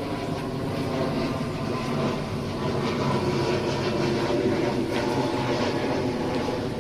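Airbus A320neo jet engines running steadily, a loud rushing noise with a hum of several steady tones, growing slightly louder a few seconds in.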